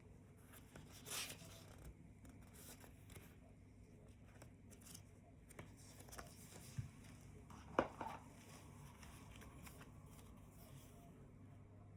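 Quiet handling of product packaging: scattered small clicks and short rustles, with a brief rustle about a second in and a sharper click about eight seconds in.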